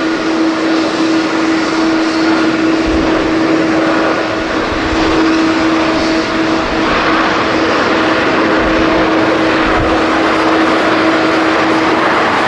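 Jet airliner engines running loud and steady, a dense roar with a constant whine through it. Irregular low thumps of wind buffet the microphone.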